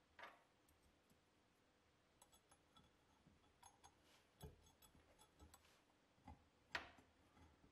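Quiet handling sounds: scattered light clicks and a few soft brushing or rubbing strokes, the loudest about a second before the end.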